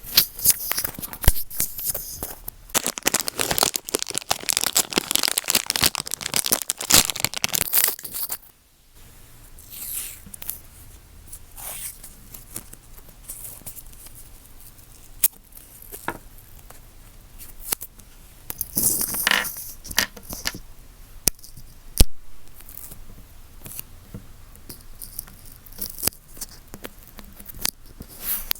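An earphone microphone rubbed, scratched and tapped hard right on its capsule: dense scratchy friction for the first eight seconds or so, then sparser scrapes and sharp taps.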